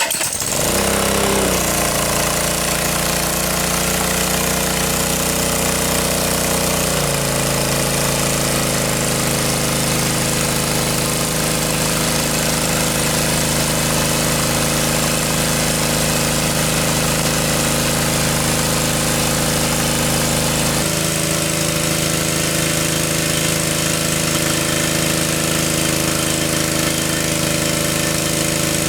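A small engine starts up and runs steadily, its pitch settling after the start, stepping down about seven seconds in and shifting again about 21 seconds in.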